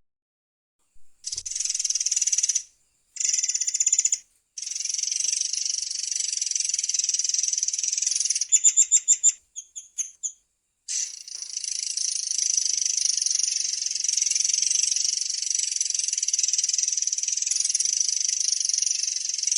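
A murai air songbird singing long, high-pitched rolled trills. The trills are broken by short pauses, and about nine seconds in there is a run of half a dozen separate sharp notes before a long unbroken roll resumes.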